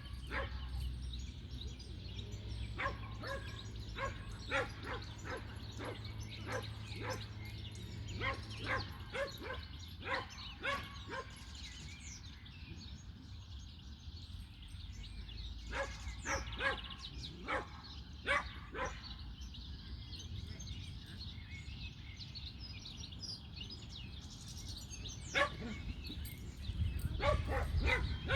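A dog barking in several bouts of quick, repeated barks, over a low steady background rumble.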